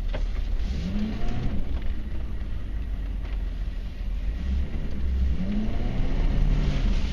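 1994 Chevy Silverado K1500's 6.5-litre turbo-diesel V8 running under way, heard from inside the cab, rising in pitch as it revs about a second in and again near the end.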